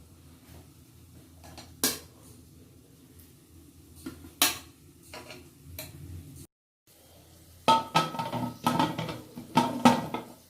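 A metal utensil clinks against a metal pot as steamed chicken pieces are turned over: two sharp, separate clinks, then after a brief gap a quick run of clattering knocks near the end.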